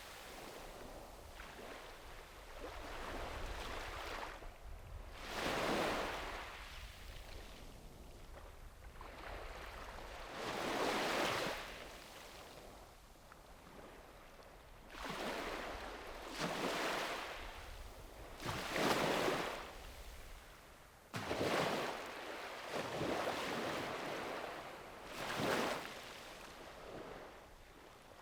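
Sea waves breaking on the shore, one wash after another every few seconds, each swelling and then fading away.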